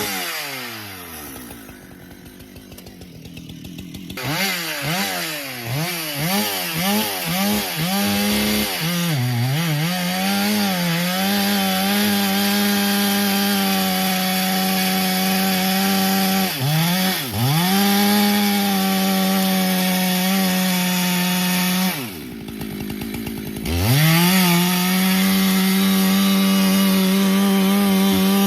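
Two-stroke chainsaw cutting into pecan rounds. The engine drops to idle at the start, then revs back up and runs at full throttle, its pitch dipping again and again as the chain bogs in the wood. It falls briefly to idle about 22 seconds in before going back to full throttle.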